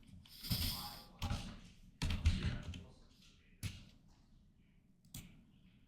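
A few scattered taps and clicks on a computer keyboard, dying away towards the end, with a short breathy noise about half a second in.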